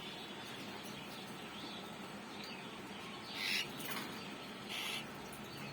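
Small pet parrot giving a few short chirping calls, the clearest about halfway through and again near the end, over a faint steady background noise.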